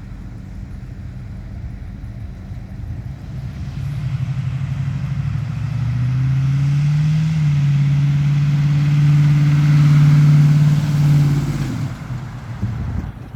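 1970 Chevrolet C10's V8 engine pulling the truck along, picking up revs, then dropping pitch once as the automatic shifts up. It runs steady and loud for a few seconds, then fades near the end.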